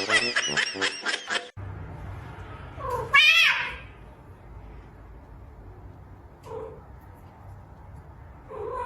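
Domestic cat meowing: one loud, drawn-out call about three seconds in, then two short, quieter meows later. Music cuts off abruptly in the first second and a half.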